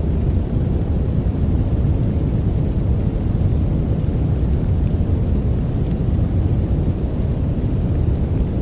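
Steady, deep noise sitting low in pitch with little hiss above it: a sleep noise track of the brown-noise kind.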